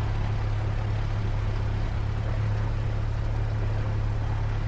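Cessna 172's piston engine and propeller running steadily on the ground, a constant low drone.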